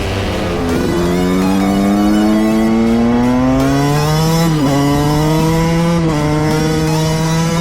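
Single-cylinder two-stroke dirt bike engine under hard throttle, its pitch climbing steadily, then dipping briefly twice past the middle at gear changes before pulling on.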